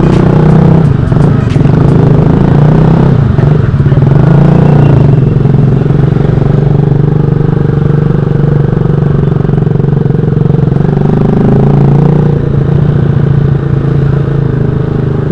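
Motorcycle with a very loud exhaust running under way, its engine note shifting up and down over the first few seconds, then holding steady.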